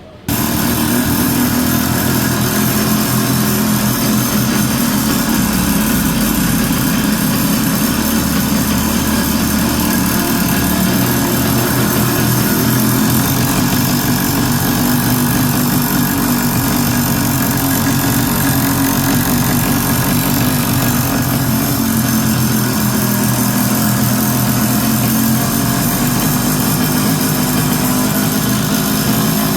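Small engine of a motorized bicycle running steadily at a fairly even speed; it starts abruptly just after the beginning and holds at a constant loudness, without any clear revving.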